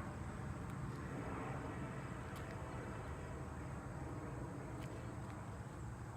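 Outdoor ambience: a steady low rumble and hiss, with a faint steady high tone and a few faint ticks. No horn sounds.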